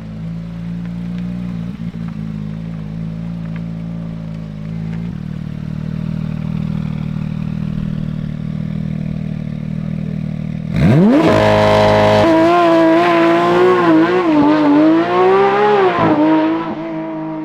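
Porsche 911 GT3 RS (992) naturally aspirated flat-six running through a valved Grade 5 titanium F1 RSR exhaust: it idles steadily, then about eleven seconds in the revs shoot up sharply and are held high and wavering for about five seconds before the pitch and loudness fall away near the end.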